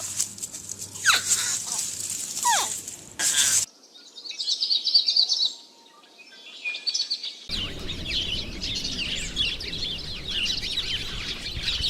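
Birds chirping and singing in three short clips cut one after another, with abrupt changes about three and a half seconds in and again about halfway through.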